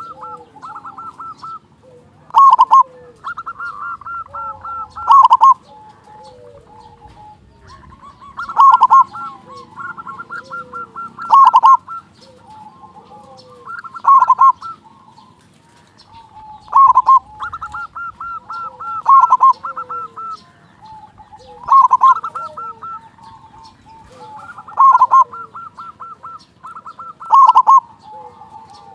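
Zebra dove (perkutut) singing its rolling coo song: quick runs of short cooing notes, each phrase ending on a loud coo, about ten phrases two to three seconds apart.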